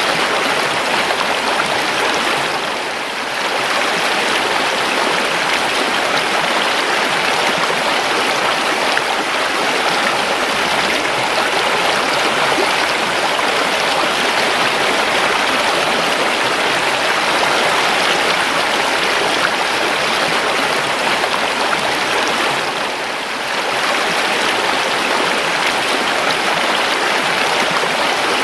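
River water flowing and rushing, a steady, dense water noise, with a brief dip in level about three seconds in and again near the end.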